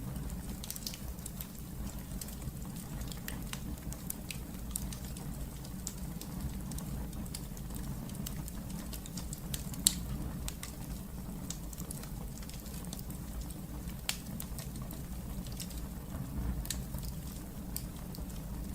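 Wood fire burning in a fireplace: a low steady rumble of flames with frequent small crackles, and a sharp pop a little before halfway.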